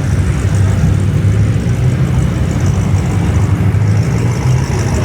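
Car engines running with a steady low rumble.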